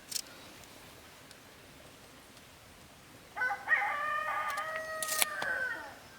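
A rooster crowing once, a single call of about two and a half seconds starting a little past halfway, with a few short sharp clicks around it.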